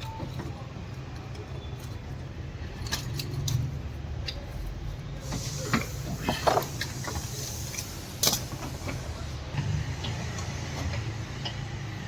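Scattered metallic clinks and scrapes of a diesel fuel filter and filter wrench being handled and screwed onto the fuel filter head, over a steady low hum, with a brief hiss about halfway through.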